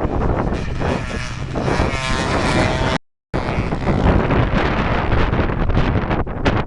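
Trail motorcycle engine revving, with its pitch rising briefly about two seconds in, buried under heavy wind buffeting on the microphone; the sound cuts out for a moment about three seconds in and resumes.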